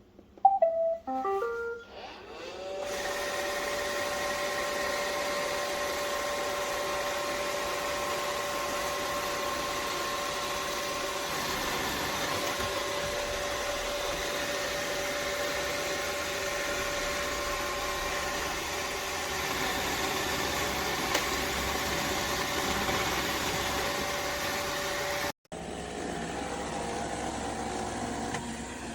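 iRobot Roomba Vac Essential robot vacuum giving a short run of electronic beeps as it starts a cleaning run, then its motors spinning up about three seconds in and running with a steady whine. Near the end the sound breaks off abruptly and comes back as a slightly different running sound.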